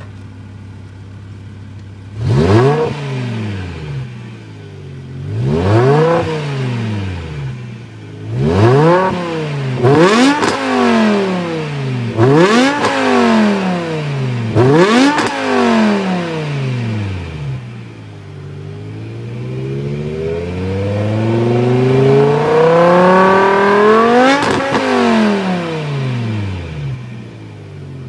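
BMW M6 with a Supersprint 4x80mm quad exhaust idling, then revved in six short, sharp throttle blips a couple of seconds apart. It then makes one slower, longer rev that climbs for several seconds before dropping back to idle near the end.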